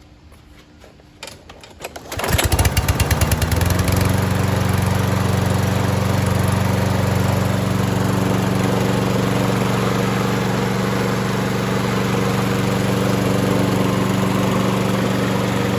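Kohler 149cc single-cylinder engine of a 2015 Lawn-Boy 10730 push mower starting about two seconds in, firing rapidly as it catches, then running steadily at full speed. It starts and runs cleanly with its auto-choke thermostat sensor now fitted the right way round.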